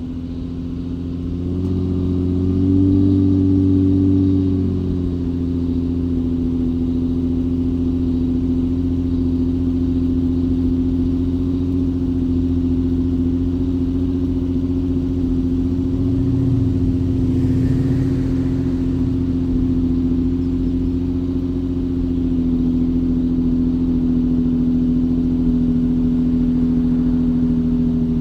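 Infiniti G35 sedan's 3.5-litre V6 idling through a custom 2.5-inch exhaust just after a cold start. The idle climbs in pitch for a few seconds near the start, then settles into a steady cold idle.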